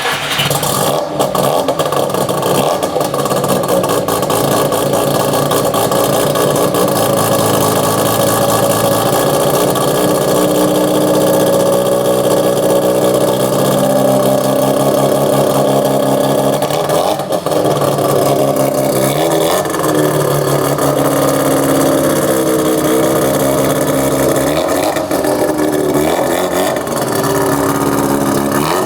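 Mazda RX-7 FC3S's naturally aspirated, half-bridge-ported 13B rotary engine running just after start-up, idling steadily at first. In the second half it is revved several times, its pitch rising and falling with each blip.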